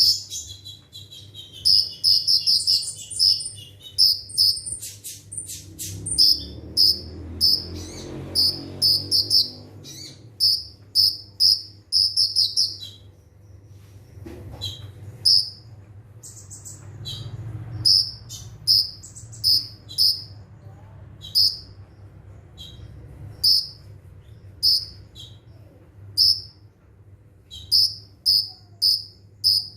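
Kolibri ninja sunbird giving short, sharp, high chirps over and over: rapid runs for the first dozen seconds, then single notes about once a second. A faint low hum lies underneath.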